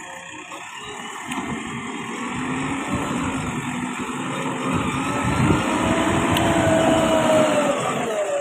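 JCB 3DX backhoe loader's diesel engine running under work, growing steadily louder, its pitch rising and then falling over the last few seconds.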